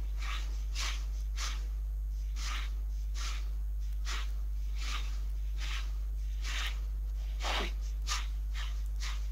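Steady low electrical mains hum with a dozen or so short, irregular clicks from mouse and keyboard work at the computer.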